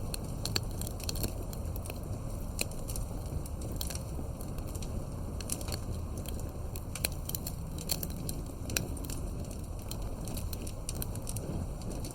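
Wood fire crackling and popping, with many sharp irregular pops over a steady low rumble of burning.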